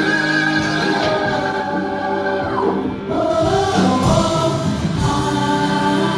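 Live stage performance: several voices singing together over a band, with long held notes.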